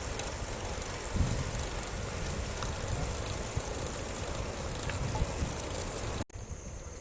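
Wind buffeting the microphone over a steady rush of road and tyre noise while riding a bicycle, with gusty low thumps and a few faint clicks. It cuts off abruptly about six seconds in, giving way to a quieter steady hiss.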